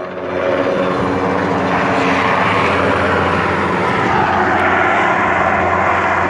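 Large heavy-lift helicopter, a Sikorsky sky crane, passing close by; its rotor and turbine noise grows louder in the first half-second and then holds steady and loud.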